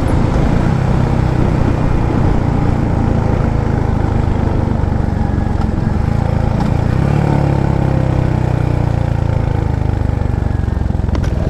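Royal Enfield Hunter 350's single-cylinder engine running flat out in fifth gear at its top speed of about 138 to 140 km/h, a steady drone that is not climbing any further.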